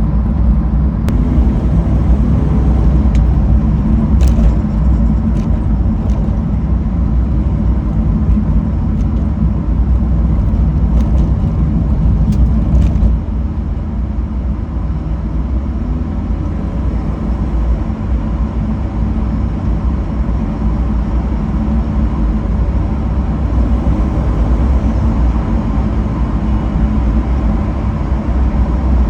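BMW E36 on the move: a steady low rumble of engine and road noise, a little quieter after about 13 seconds, with a few light clicks in the first half.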